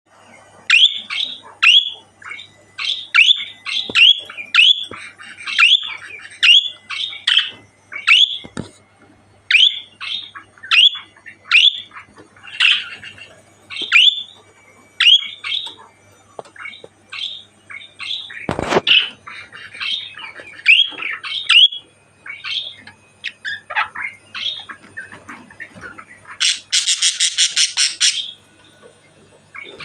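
Budgerigar calling over and over: short, sharp chirps that drop quickly in pitch, one or two a second, with one louder call about two-thirds of the way in and a fast buzzing chatter near the end.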